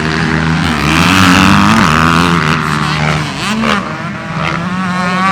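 Dirt bike engines racing on a motocross track, revving up and down as the bikes go round; from about three and a half seconds in the pitch rises and falls quickly with throttle and gear changes.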